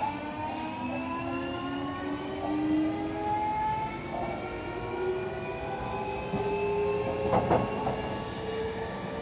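JR Kyushu 305 series electric train's VVVF inverter traction motors whining from inside the motor car: several tones climb steadily in pitch as the train accelerates. A brief clatter comes about seven and a half seconds in.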